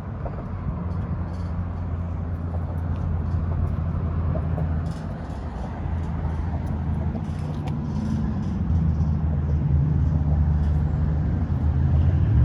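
Harley-Davidson Road Glide V-twin engine running steadily, growing louder about eight seconds in.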